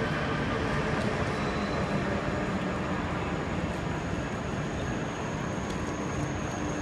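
Train running on the upper-level tracks of a large station hall: a steady rumble over the general noise of the concourse. A thin high whine comes in about halfway through and grows stronger.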